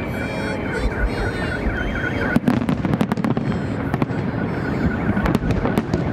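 Fireworks salute: a rapid string of booming and crackling shell bursts. During the first two seconds a warbling high tone sounds over the bangs.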